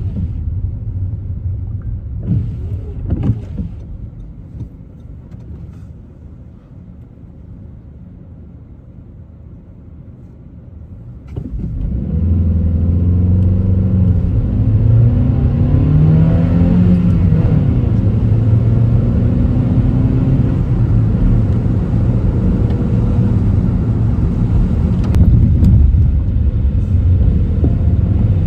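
Car driving: road and engine noise that falls quiet for several seconds, then rises sharply as the car pulls away and accelerates, with the engine pitch climbing before settling into steady cruising noise.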